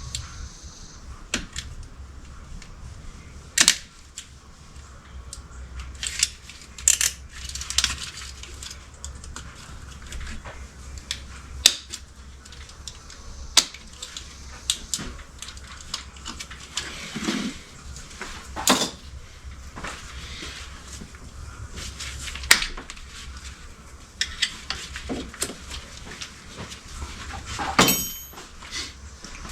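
Scattered metallic clinks and clanks of hand tools and engine parts being handled, over a low steady hum. Near the end one metal piece rings briefly after it is struck.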